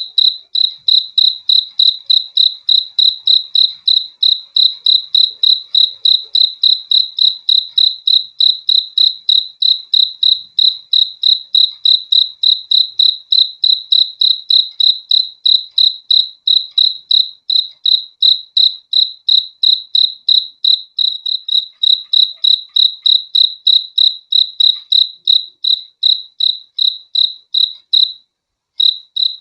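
A cricket chirping loudly in a fast, even rhythm of about three chirps a second, one high pitched note per chirp, with a brief pause near the end.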